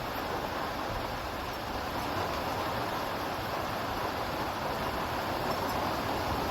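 Steady rushing noise of a storm that holds even throughout, with no thunderclap.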